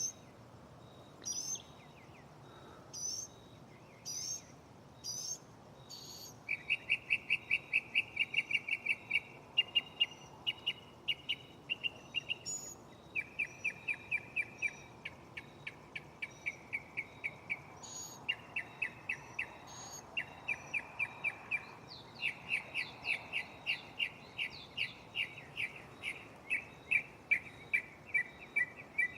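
Northern mockingbird singing its medley of borrowed phrases: a few short, separate notes about a second apart, then about six seconds in, a long run of rapid trilled phrases, each repeated over and over for a second or two before switching to a different one.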